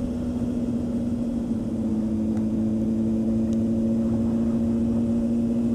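Honda CB600F Hornet's inline-four engine running at a steady cruise, its note holding an even pitch, with wind rumble across the microphone.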